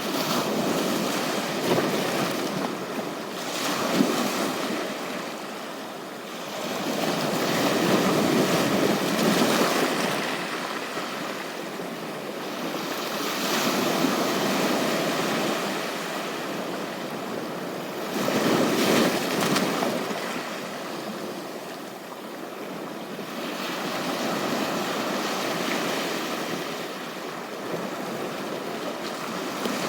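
Sea waves breaking and washing up on a beach, the surf swelling and falling away about every five or six seconds.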